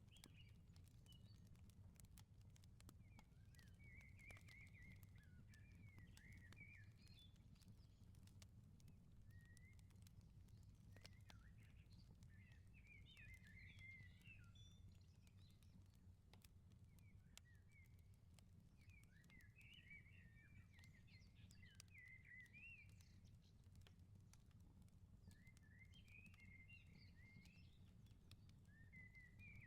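Faint outdoor wood fire crackling with scattered small pops, while birds twitter in short bursts every few seconds over a steady low rumble.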